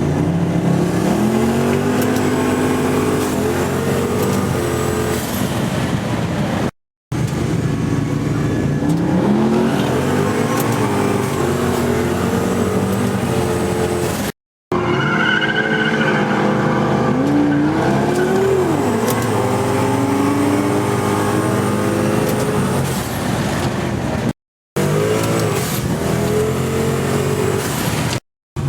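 Twin-turbo Ford BA Falcon XR8 V8 engine revving and accelerating hard, its pitch climbing several times and dropping sharply once, in several short clips cut together.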